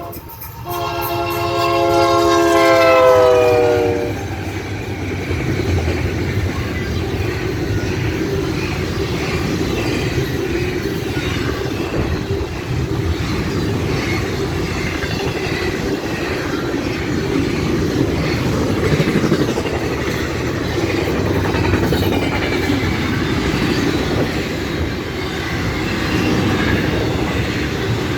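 Union Pacific freight locomotive's air horn sounding a long blast, its pitch falling as the train passes at nearly 60 mph. After that the fast freight train rushes by, with a steady rumble and rhythmic clickety-clack of wheels over the rails.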